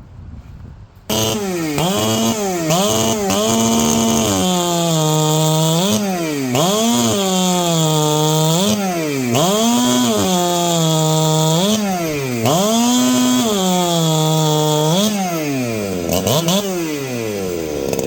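Two-stroke chainsaw with a pop-up piston build, running loud at high revs from about a second in. Its pitch repeatedly sags and climbs back up, with a few longer stretches held high.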